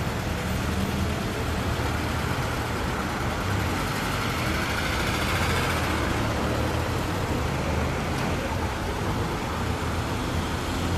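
Road traffic noise: a steady low engine hum with vehicles driving by, one swelling and fading as it passes about midway.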